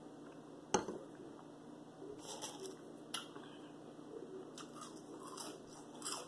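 Close-up eating sounds: chewing French fries in short crackly spells. A sharp knock sounds about a second in, and a smaller click a couple of seconds later.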